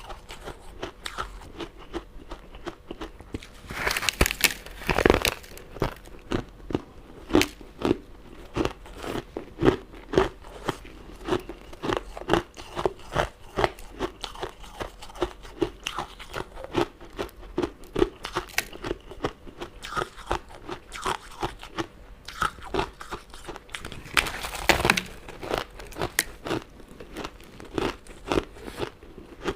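Close-miked eating of sweets and jelly: a steady run of small, quick chewing clicks, broken by two louder crunching bites, one about four seconds in and one near twenty-five seconds.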